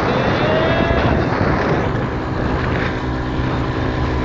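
Vehicle engine running steadily at speed, with wind buffeting the microphone.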